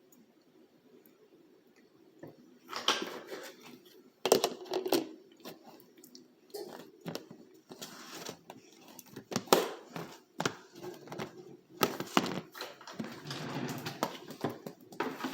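A faint low hum, then from about three seconds in a run of irregular knocks, clicks and clatter from things being handled and set down.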